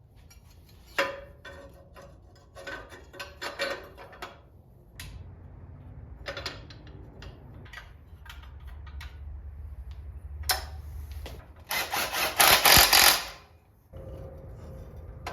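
Hand tools and metal engine parts being handled: scattered clicks, knocks and scraping, then a louder run of rapid clattering strokes about twelve seconds in.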